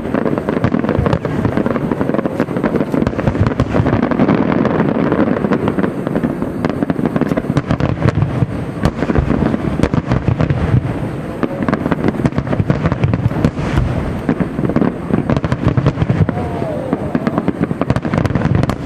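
Aerial firework shells bursting in rapid, continuous succession: a dense barrage of bangs and crackle with a low rumble, without a pause.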